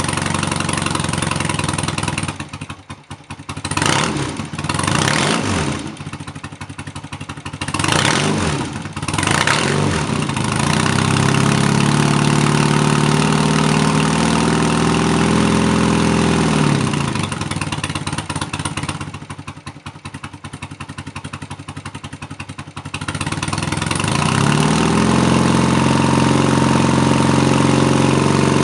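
BMW R80 air-cooled boxer twin running shortly after a cold start: idling with four quick throttle blips in the first ten seconds, then held at raised revs for several seconds, falling back to a low idle, and raised again and held near the end.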